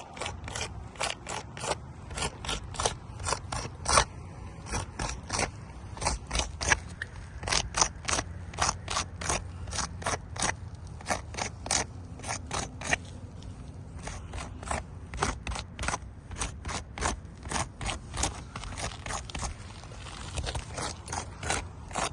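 Footsteps crunching on a roof, a regular walking pace of about two gritty steps a second, with a brief slowdown about two-thirds of the way through.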